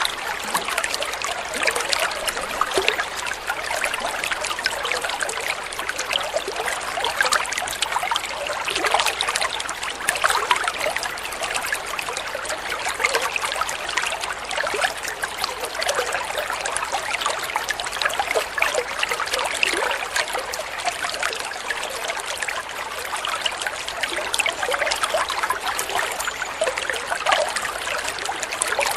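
Flowing water trickling steadily, with many small splashes and bubbles.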